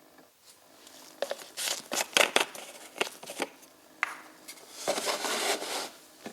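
Irregular handling noises: rustling and scraping with several sharp clicks and knocks, loudest about two seconds in and again near the end.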